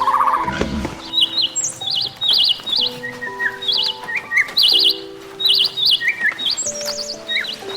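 A small bird chirping in short, quick trilled notes, again and again, over background music of held notes.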